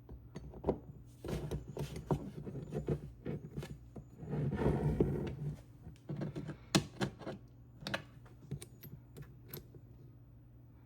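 A string of small knocks and clicks, with a longer scraping, rustling stretch about four seconds in, like small parts being handled on a bench.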